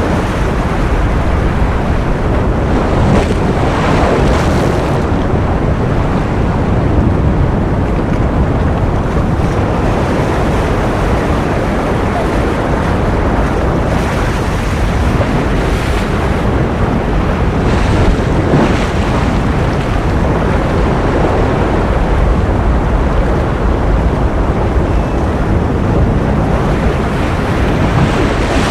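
Continuous ocean surf: a steady rush of waves, swelling brighter every several seconds as a wave breaks.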